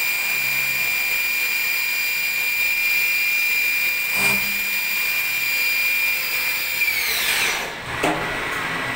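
CNC vertical machining center spindle running at high speed with a steady high-pitched whine. About seven seconds in it spins down, and the whine falls steeply in pitch and dies away within about a second. A short knock sounds partway through.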